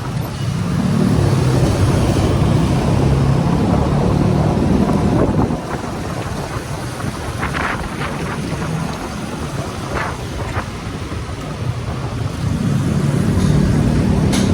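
Motorcycle engine running while riding, with wind noise on the microphone. The engine eases off for several seconds midway, then pulls harder again near the end.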